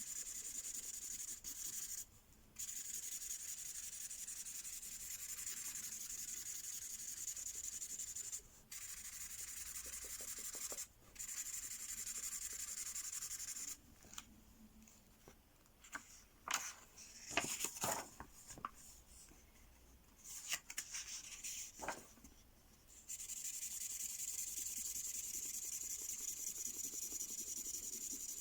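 Magic-ink colouring pen scribbling across paper, a steady scratchy hiss with brief pauses as the pen lifts. For several seconds in the middle the scribbling stops and a scatter of light taps and clicks is heard instead.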